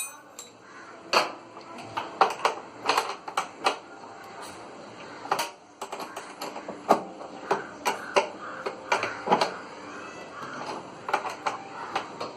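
Irregular clicks and knocks of tools and parts being handled while working on a front-load washing machine's drum assembly, some strikes sharper than others.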